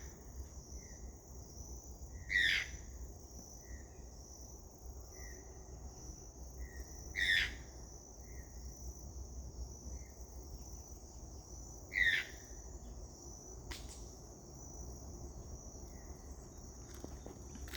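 A toucan calling: three loud, short rising yelps about five seconds apart, with fainter short notes in between, over a steady high drone of insects.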